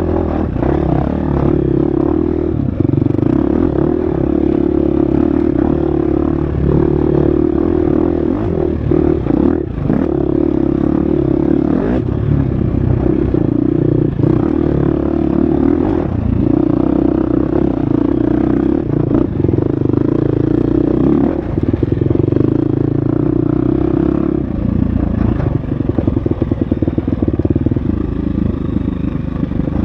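Husqvarna FX350 four-stroke single-cylinder dirt bike engine running hard at steady revs on a trail, with scattered knocks and clatter from the bike over rough ground. About 24 seconds in the revs drop and the engine settles into a rapid pulsing.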